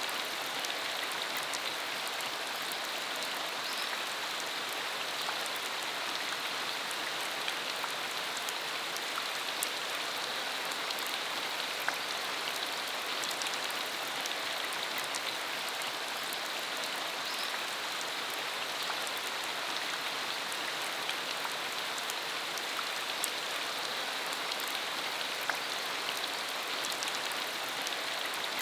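Steady rain falling on a dirt country road: an even patter with scattered single drops ticking sharply here and there.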